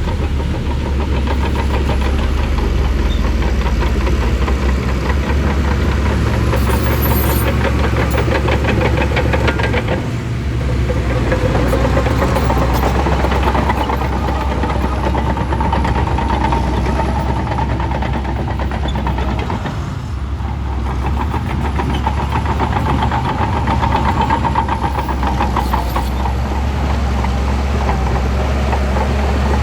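Shantui bulldozer's diesel engine running hard and steadily while it pushes and clears ground, with a fast knocking rumble; the load eases briefly twice, about a third and two thirds of the way through.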